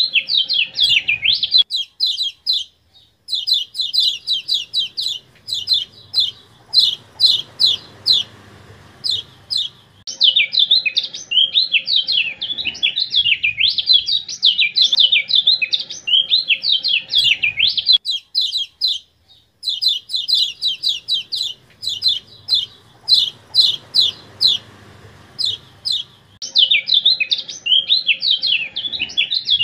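Recorded kecial kuning (yellow white-eye) song for bird training: long runs of fast, high chattering notes alternating with warbling phrases, with two brief pauses. The phrases seem to repeat, as in a looped, edited track.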